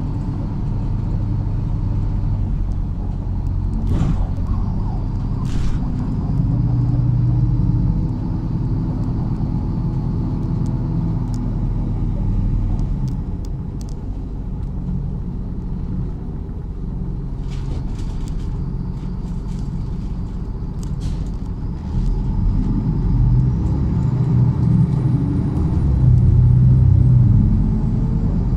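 MAZ-103 city bus driving: its diesel engine running with the pitch rising and falling several times as it accelerates and slows, with a few sharp clicks and rattles along the way.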